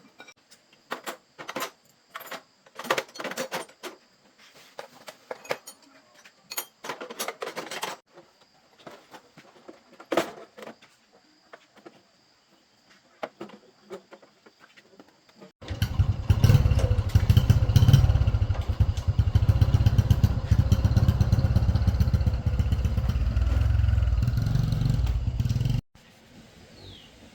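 Scattered sharp clicks and knocks of hand work on metal parts, then a loud machine running steadily for about ten seconds before cutting off abruptly.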